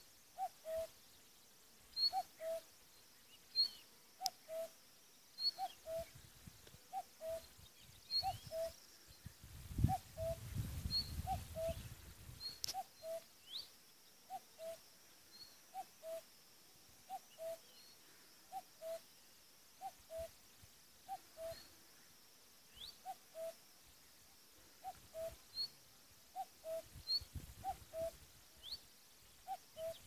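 A bird repeating a low, two-note hooting call, the second note lower, about once every second and a half, with short high chirps of small birds in the background. A low rumble comes and goes around ten seconds in.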